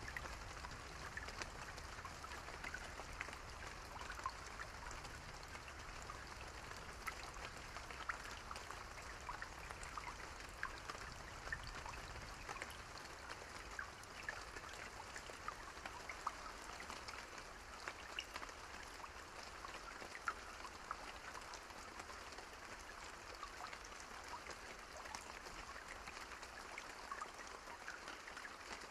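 Steady rain falling, with many separate drops pattering close by over the hiss.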